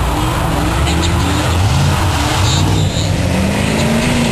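Truck engine revving, its pitch climbing and dropping several times in quick succession, then one longer climb near the end.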